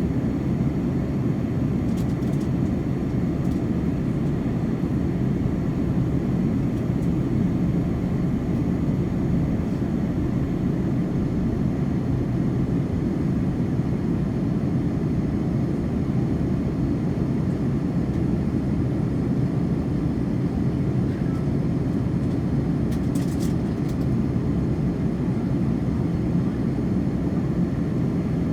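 Steady low rushing drone inside the cabin of an Airbus A330-300 airliner in flight: engine and airflow noise, unchanging throughout. A few faint clicks sound about two seconds in and again near the end.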